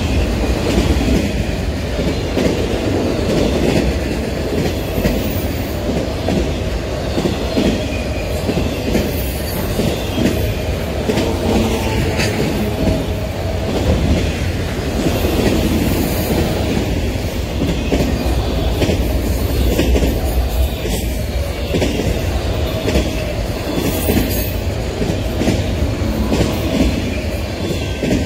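Freight train of autorack cars rolling past: a steady rumble of steel wheels on the rail with repeated clicks over the rail joints, dying away as the last car clears near the end.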